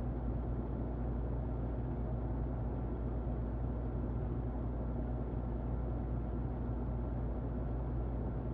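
Muffled electric fan running steadily: a deep, even whooshing rumble with a faint motor hum.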